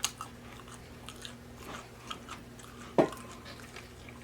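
Close-miked chewing and biting of a chicken nugget: small wet mouth clicks, with one sharper click about three seconds in.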